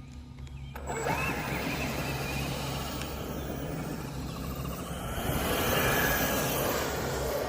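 An RC jet truck's twin 120 mm electric ducted fans spooling up with a rising whine about a second in, then a loud rushing whoosh that builds to its loudest near the end.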